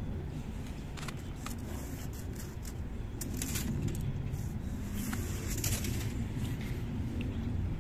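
Snow being cleared off a car in a series of short, irregular scraping strokes over a steady low rumble.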